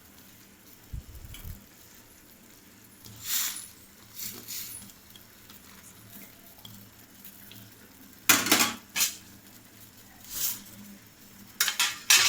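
A metal spoon or ladle stirring instant noodles in a cooking pan, scraping and clinking against the pan in short bursts, the loudest near the middle and near the end. There is a low bump about a second in.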